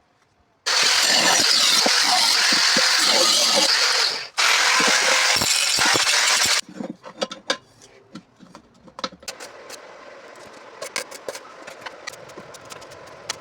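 Angle grinder with a cut-off disc cutting through steel exhaust pipe in two loud runs, about three and a half seconds and then two seconds, each stopping abruptly. Then light metallic clicks and taps as the cut pieces are handled.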